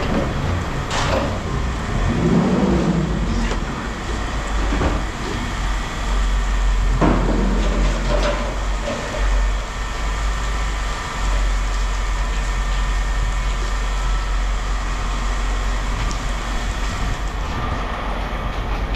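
A low, steady engine rumble like an idling vehicle, with a few sharp metallic clanks of scrap being handled, mostly in the first half.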